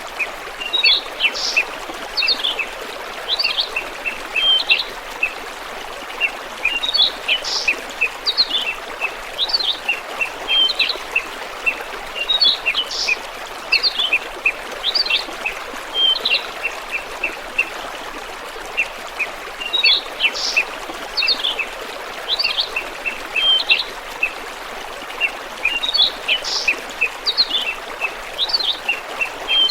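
A small songbird repeating the same short song phrase of quick chirps and notes about every six seconds, over the steady rush of flowing water.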